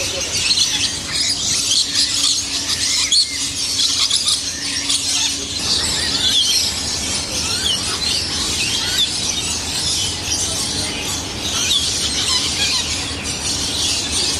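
Dense, continuous chorus of many small birds chirping and squealing, with quick high chirps overlapping throughout.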